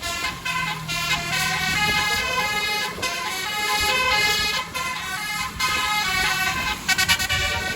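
Multi-tone basuri musical vehicle horn playing a tune of held notes that step from pitch to pitch, with a quick stuttering run of notes near the end.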